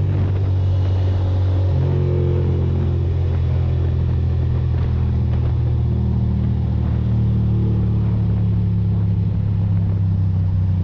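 Ducati Monster's L-twin engine running steadily while the motorcycle is ridden at cruising speed, with wind and road noise. The engine note drops once about two seconds in.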